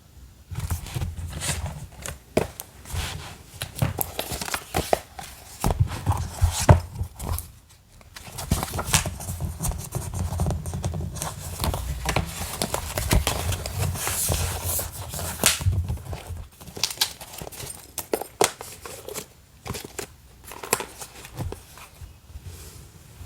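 Paper and sticker handling while decorating a journal page: rustling, crinkling and tearing, broken by many small clicks and taps and a few soft thumps.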